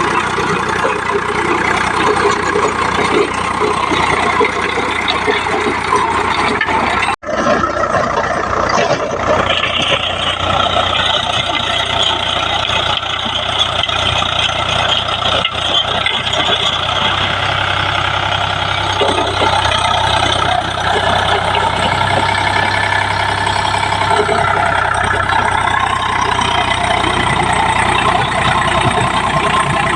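Eicher tractor's diesel engine running steadily, with a brief break about seven seconds in.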